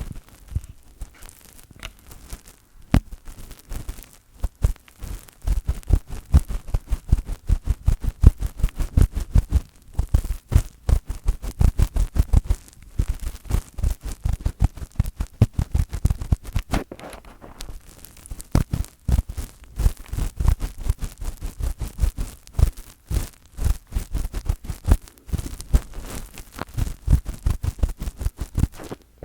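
Fingers rubbing, tapping and scratching directly on a microphone, making fast rhythmic strokes of close scratchy rustling, each with a deep bassy thump.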